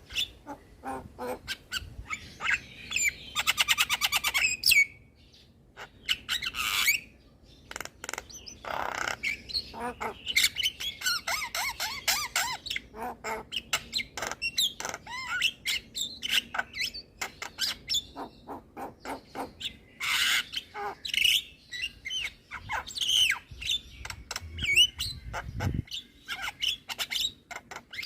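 Javan myna singing a long, varied song of harsh squawks, clicks, whistles and chatter, with a fast buzzing rattle about three seconds in.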